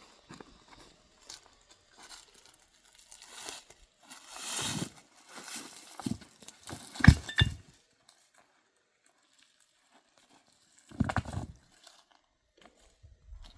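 Scattered rustling and handling noises, with a quick run of sharp knocks about seven seconds in and a louder rustling burst about eleven seconds in.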